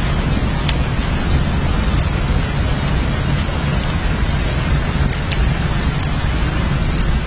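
Steady heavy rain: an even hiss with a low rumble underneath and scattered sharp drop ticks.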